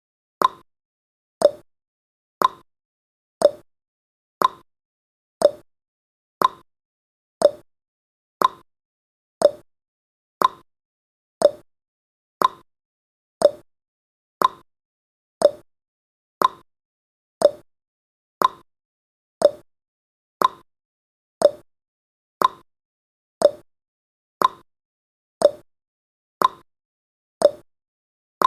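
Countdown timer's ticking sound effect: one short, sharp click every second, alternating a higher and a lower tick like a clock's tick-tock.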